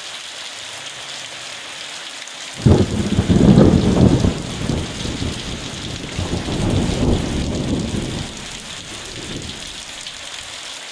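Steady rain falling. About two and a half seconds in, thunder breaks suddenly, rumbling low and loud for about five seconds before fading back under the rain.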